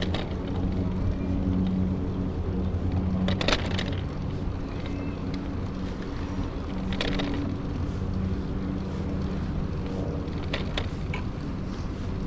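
Steady low engine hum with a few sharp knocks, about three and a half seconds apart.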